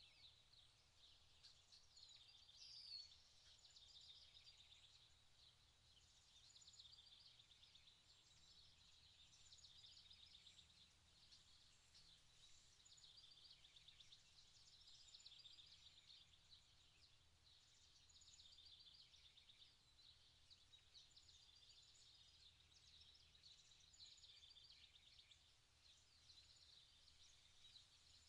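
Near silence, with faint, continuous high-pitched chirping and a slightly louder chirp about three seconds in.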